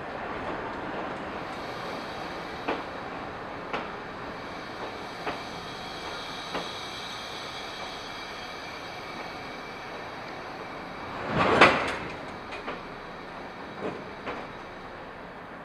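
Taiwan Railway passenger coaches rolling past along a platform: a steady rumble of wheels on rail with a sharp click every second or so as wheels cross rail joints. One louder, longer clank comes about eleven and a half seconds in.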